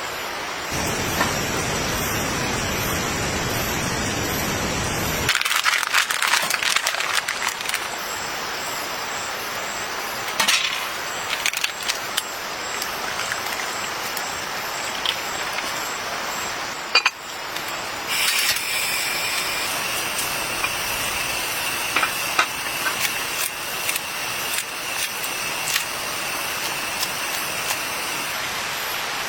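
Steady rain hiss with scattered clicks and knocks, heavier and deeper in the first few seconds.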